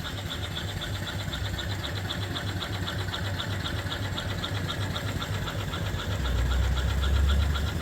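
Antique-reproduction single-cylinder steam engine (3-inch bore, 4-inch stroke) running steadily under steam with a quick, even mechanical beat. A louder low rumble swells in near the end.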